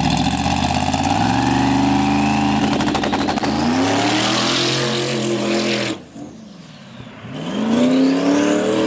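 Twin-turbo big-block V8 drag car under hard acceleration, the engine note climbing through the revs with a high whine rising alongside it. The note dips once and climbs again, then drops away abruptly about six seconds in. About a second later it starts climbing again.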